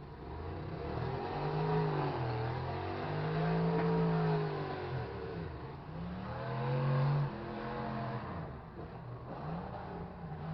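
Demolition derby truck engines revving hard, rising and falling in pitch several times, with one rev cutting off sharply about seven seconds in.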